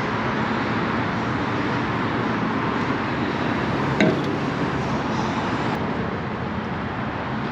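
Steady background noise with a short sharp knock about four seconds in.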